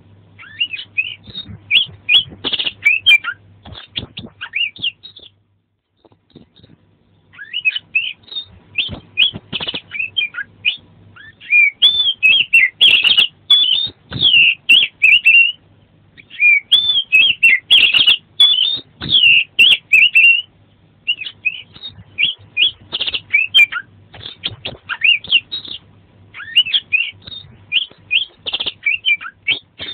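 Oriental magpie-robin (kacer) singing a fast, varied song of sweet whistles and chirps in long bursts, with a brief pause about six seconds in.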